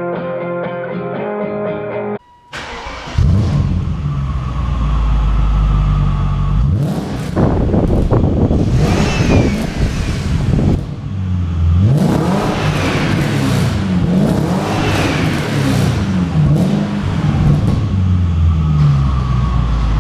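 BMW E30 with a swapped-in M60 V8, running and revved several times, the engine note climbing and dropping in pitch. Brief music plays in the first couple of seconds before the engine sound starts.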